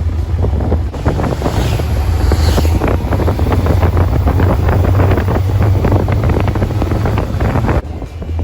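Heavy wind buffeting on the microphone of a moving motorcycle, over a steady low drone.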